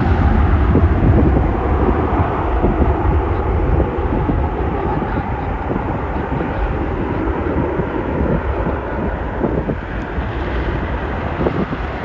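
Jet airliner engines at high thrust, a broad steady rumble that slowly fades, mixed with wind buffeting the microphone.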